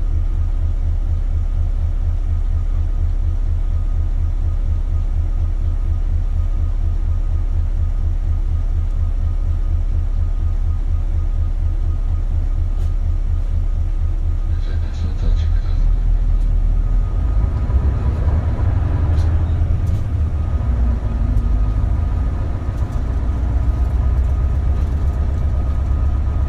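Inside an Isuzu Erga (KL-LV280L1) diesel city bus: the engine runs with an even low pulse, then about fifteen seconds in it gets louder and heavier as the bus pulls away and gathers speed.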